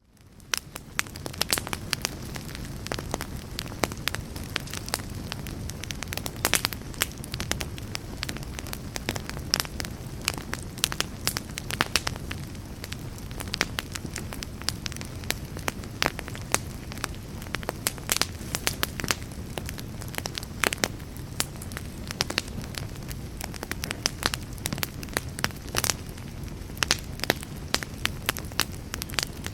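Campfire burning, with frequent sharp crackles and pops over a steady low rumble, fading in over the first second.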